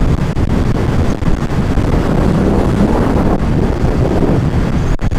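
Wind rushing and buffeting the microphone while riding along a road, a steady loud rush heaviest in the low end, with vehicle road noise underneath.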